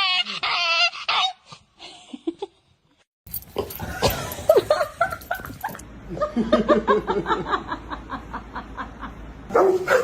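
Dogs vocalizing across a few quick clips: a wavering, pitch-bending whine in the first second, then after a short gap a quick rhythmic run of short cries.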